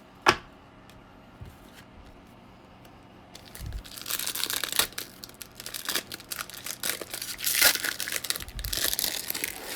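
Foil wrapper of a baseball card pack crinkling and tearing as it is opened and handled, a dense crackle that starts a few seconds in and runs almost to the end. A single sharp tap just after the start.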